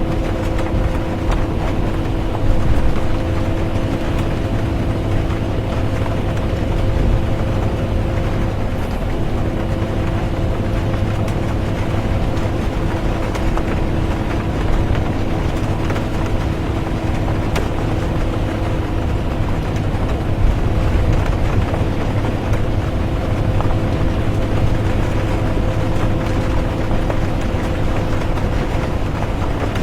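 Inside a moving bus: steady engine and road rumble with a constant whine of several steady tones, under an even hiss of rain. The whine breaks off briefly about nine seconds in.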